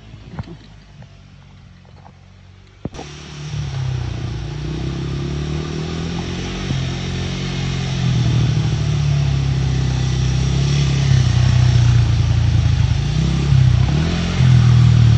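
Dirt bike engine running and revving, its pitch rising and falling; it starts suddenly about three seconds in and grows louder toward the end.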